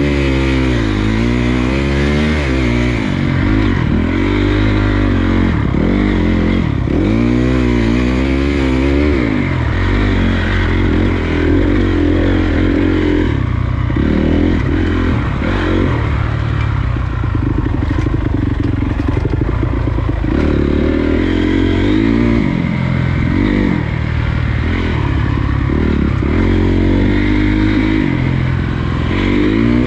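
Honda CRF250 dirt bike's single-cylinder four-stroke engine being ridden hard, revving up and falling back over and over as the throttle is worked, with some steadier stretches. Wind noise and rattling from the bike run underneath.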